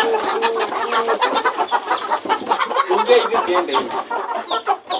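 A flock of young chickens clucking, with a few short high chirps and many small clicks mixed in.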